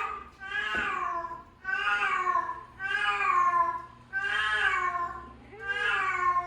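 A cat meowing over and over: about six drawn-out meows, one roughly every second, each falling in pitch at the end.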